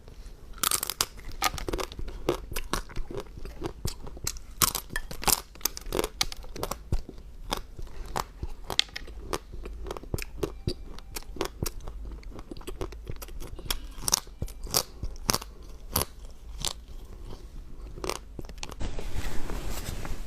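Close-up chewing of crunchy food: many sharp, irregular crunches.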